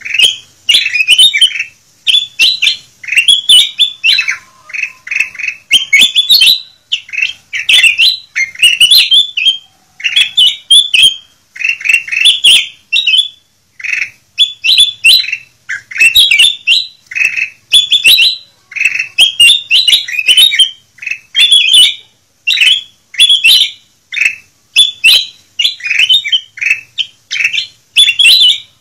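Kutilang emas bulbul singing loudly and repeatedly: short, bubbly chirping phrases follow one another about every second, with only brief pauses between them.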